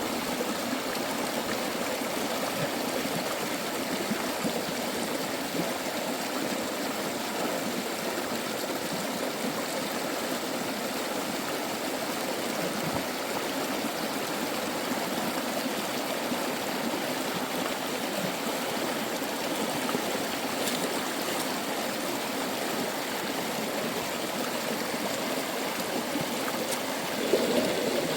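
A stream's steady rushing flow of water.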